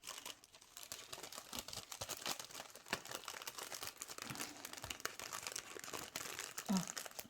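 Plastic sticker packet crinkling and rustling as stickers are worked out of it, a steady run of small crackles.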